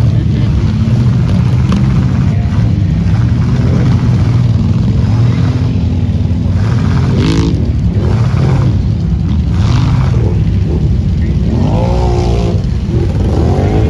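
Off-road vehicle engine running steadily and loudly, with a few brief shouts from people nearby.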